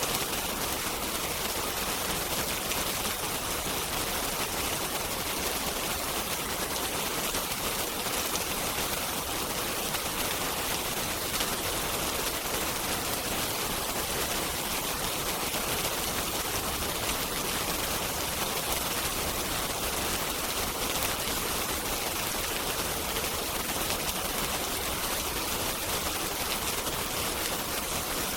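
Steady rain falling, an even hiss with no letup and no change in level.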